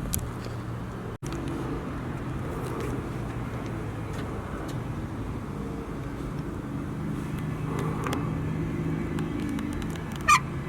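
Engine running steadily with a low hum, with one short, sharp high chirp near the end.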